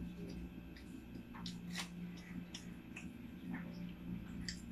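A man chewing with his mouth closed, giving faint, irregular soft clicks and smacks. A steady low hum runs underneath.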